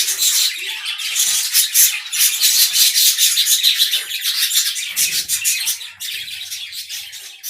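A colony of budgerigars chattering: a dense stream of rapid, high-pitched chirps and warbles from many birds at once, getting quieter near the end.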